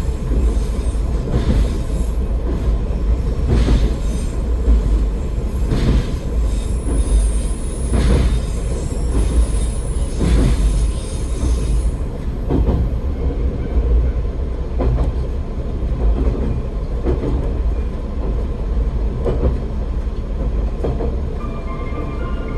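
AN-8800 diesel railcar running along the line, a heavy low rumble with a knock from the wheels over rail joints about every two seconds. A thin high squeal from the wheels runs until about halfway through and then stops. Faint steady tones come in near the end.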